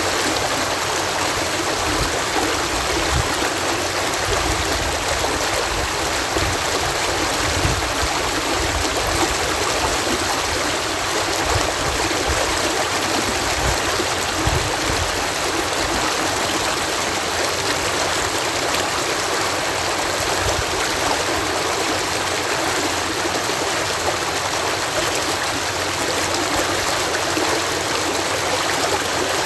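Water pouring steadily over a canal lock gate, a continuous rushing with a low rumble underneath.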